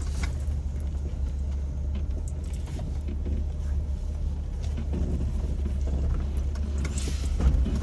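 Jeep Wrangler TJ running with a steady low engine drone while crawling a rough trail, with scattered clicks and knocks over it, one a little louder near the end.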